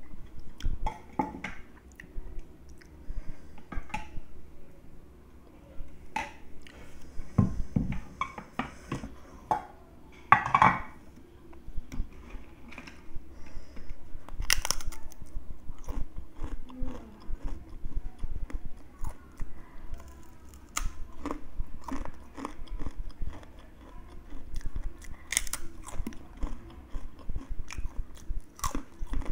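Close-up biting and chewing of crispy spice-coated fried crackers: irregular sharp crunches and crackles, with a few louder bites around the middle and near the end.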